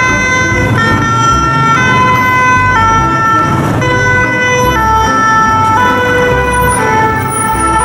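Two-tone ambulance siren, stepping back and forth between a high and a low note about once a second, over a low steady rumble.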